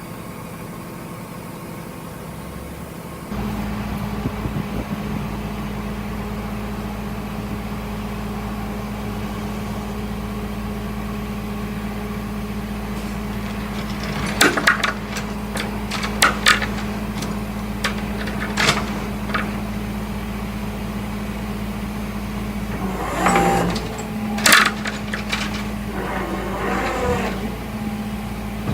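A vehicle engine idling steadily, its hum getting louder about three seconds in. Several sharp metallic knocks and clicks come over it in the second half.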